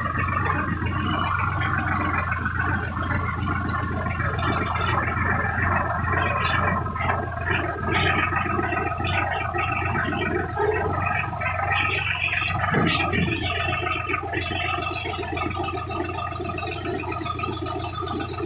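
Sonalika Sikander DI-47 RX tractor's diesel engine running steadily with a low hum, with irregular rattling over it.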